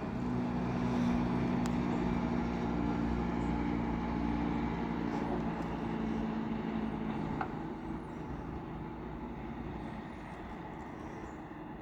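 Diesel bus engine running steadily close by, a low hum with a steady drone, fading away over the last few seconds as the bus moves off.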